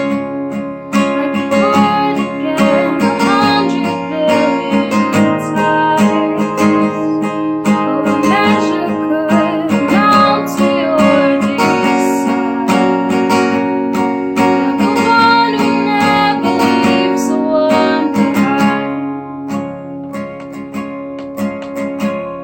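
Acoustic guitar strumming in a song, with a sung melody line over it, fading out near the end.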